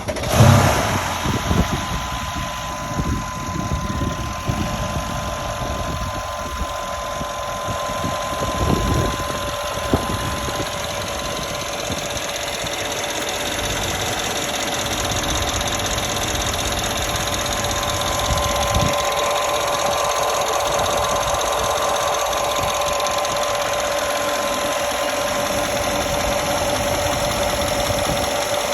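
2016 Mercedes-AMG E63 S's 5.5-litre twin-turbo V8 starting from cold: it catches with a loud flare just after the start, then settles into a steady cold idle.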